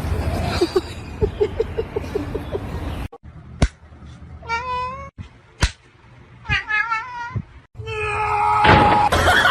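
A domestic cat meowing: three drawn-out meows in the second half, each under a second and bending in pitch. Two sharp clicks fall between them, and a louder noisy burst comes near the end.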